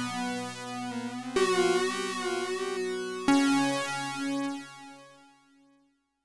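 Sequential OB-6 analog synthesizer playing sustained notes through a notch filter. New notes start about a second and a half in and again past three seconds, and the pitch wavers along the way. The last note fades away to silence.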